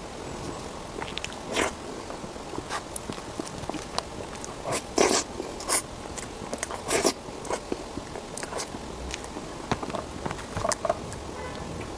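Close-miked eating sounds: a person biting and chewing food, with many irregular wet clicks and a few louder smacks about halfway through.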